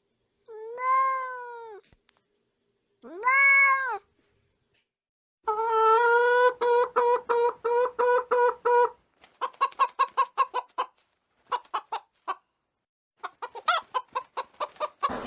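A domestic cat meows twice, each call rising then falling in pitch. Then a hen clucks in quick runs of short repeated notes, several a second, in bursts separated by brief pauses.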